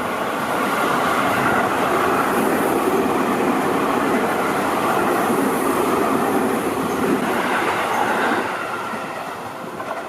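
Seibu Ikebukuro Line electric train passing close by over a level crossing, its wheels running on the rails. The sound stays loud for most of the passage and fades away after about eight seconds.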